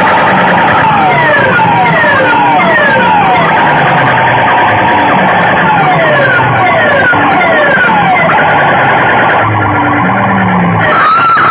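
Loud DJ sound-system playback: a siren-like effect of repeated falling pitch sweeps over a dense bed with short bass notes. Near the end the top end cuts out for about a second, then a wavering tone comes in.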